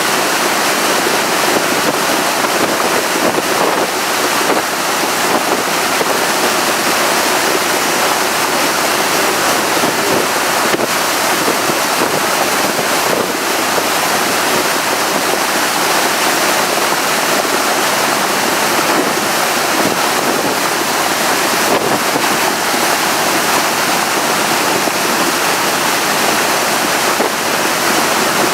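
Steady rush of water and wind from a tour boat running at speed, with wind buffeting the microphone.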